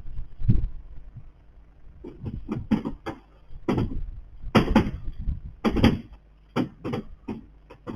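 A series of irregular knocks and thuds, a dozen or so short strikes, coming thicker from about two seconds in.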